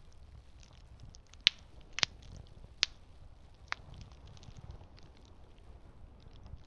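Campfire wood burning with a steady light crackle, broken by four sharp pops in the middle, the first the loudest.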